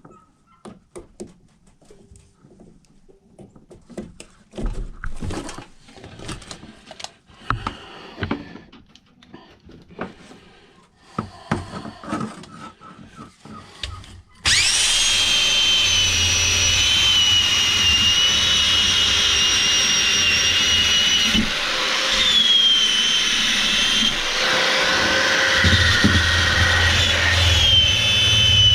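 Scattered clicks and knocks of handling, then about halfway through a power tool starts and runs steadily with a high whine. The whine dips and recovers as a wire brush on it is pressed against a rusty axe head to strip the rust.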